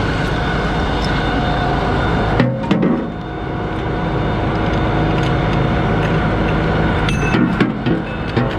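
Fire engine's engine and fire pump running steadily under load, with metallic clunks and knocks about two and a half seconds in and again near the end.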